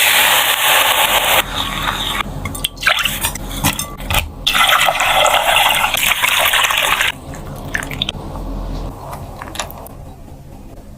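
Liquid running or being poured in the kitchen, in two long spells of steady splashing noise, the second nearly three seconds long, with scattered clicks between them and a quieter stretch near the end.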